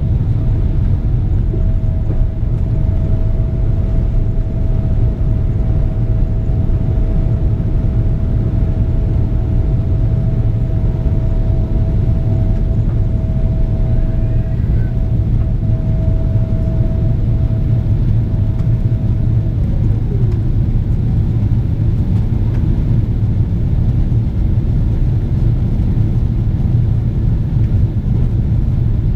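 Cabin noise inside a Boeing 777-300ER: a loud, steady low rumble from its GE90 engines and the airflow, with a thin steady whine that falls in pitch and fades about two-thirds of the way through.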